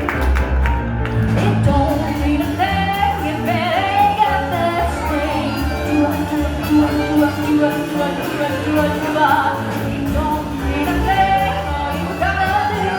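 A singer performing with band accompaniment: a wavering sung melody over steady instrumental chords and bass.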